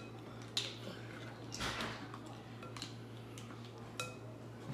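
Faint scattered clicks and clinks of eating seafood at a table: shells and utensils being handled, with a short soft rustle about a second and a half in.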